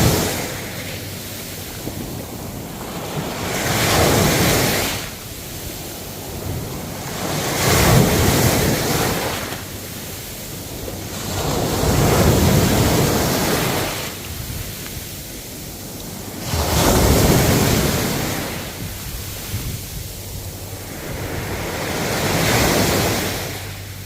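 Ocean waves surging in one after another, about every four to five seconds, each swelling and then fading back into a steady hiss of surf.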